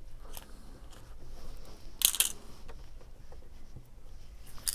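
Cardstock pieces being handled and fitted together: small scattered clicks, a short crinkly rustle about two seconds in, and a sharp snap near the end.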